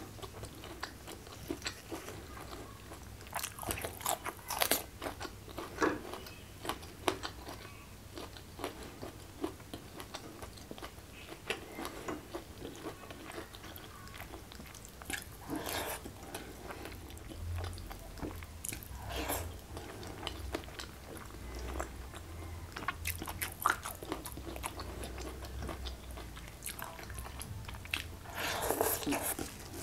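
Close-miked eating sounds: a person chewing and crunching mouthfuls of food eaten by hand, with irregular crisp bites and clusters of crunching, the loudest flurry near the end.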